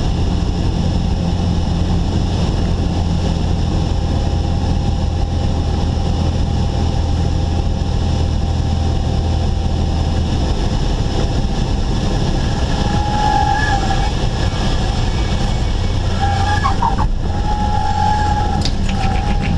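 Cessna 172's engine and propeller running steadily, heard inside the cabin; the low hum changes about halfway through.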